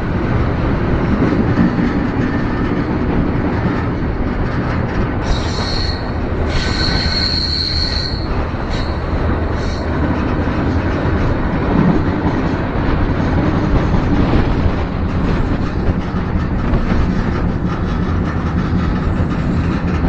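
Freight train rolling, heard from aboard a car: a steady loud rumble and rattle of steel wheels on rail. Partway through, the wheels give two high squeals, then two short ones.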